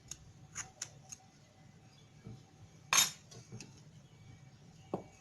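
Kitchen knife and dishes clinking as they are handled: a few light taps, one louder clatter about three seconds in, and a short knock near the end.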